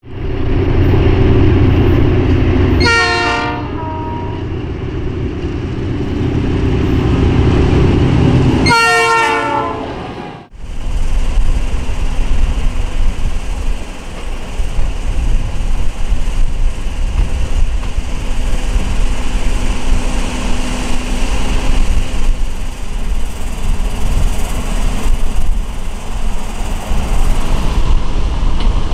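A train rumbling past close by, with two short horn sounds that fall in pitch, about six seconds apart. The sound cuts off suddenly about ten seconds in, and a steady wind-like rushing noise follows.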